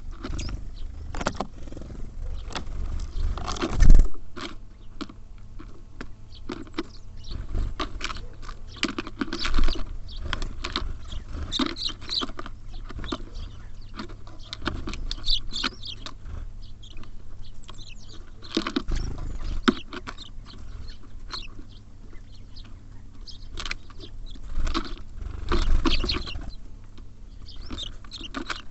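Small birds such as tits and sparrows at a feeder: irregular knocks, taps and scrabbling as they land and peck, with short high chirps now and then; the loudest knock comes about four seconds in.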